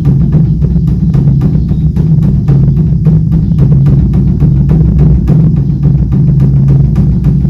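Beopgo, the large Korean Buddhist dharma drum, beaten in a rapid, continuous roll of strokes, several a second, with a deep booming resonance.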